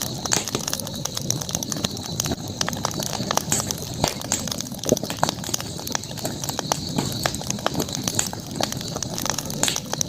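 Campfire burning, with frequent sharp crackles and pops from the wood over a steady high-pitched background hum of the night outdoors.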